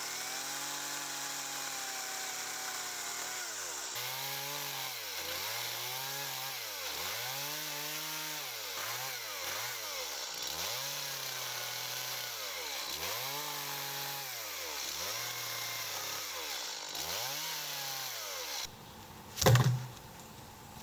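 Two-stroke chainsaw running, its engine speed rising and falling about once a second as the throttle is worked. The engine cuts off near the end, and a single loud thud follows.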